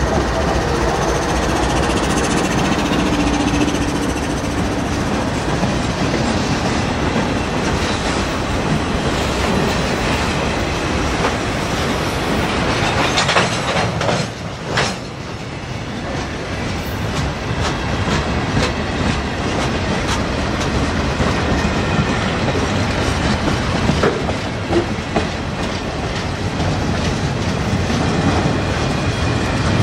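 A freight train passes close by: a diesel locomotive goes by at the start, followed by a string of freight cars and flatcars rolling past. The steady rumble of wheels on rail carries repeated clicks of wheels crossing rail joints.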